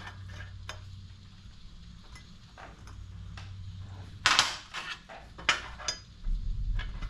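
Pieces of cut steel plate clinking and knocking against each other and the stand as they are set in place, a few sharp metallic clinks with the loudest about four seconds in, over a faint steady low hum.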